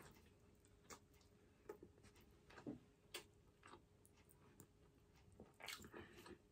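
Faint eating sounds of oven-baked salmon eaten by hand: soft, irregular mouth clicks and smacks of chewing, with fingers picking at the fish.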